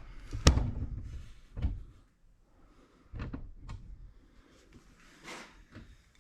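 A few separate sharp knocks and clunks of metal engine parts being handled, the loudest about half a second in, as the valve cover and its bolts are set in place on a small motorcycle engine.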